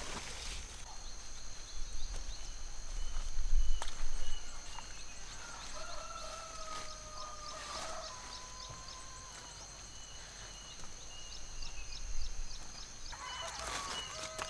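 Rural farm ambience: a steady high-pitched insect drone with rapid ticking chirps, and a long drawn-out fowl call, like a rooster crowing, from about six seconds in. A low rumble swells around three to four seconds in.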